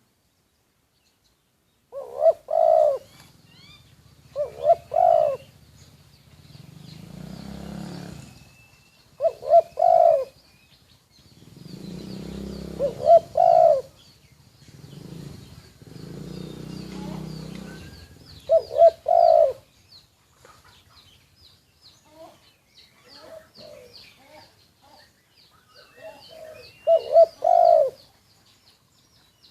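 Spotted dove cooing in a series of repeated multi-note phrases, about six over the span. Low rumbling noise comes between the calls, and faint, quick high chirps from small birds run through the second half.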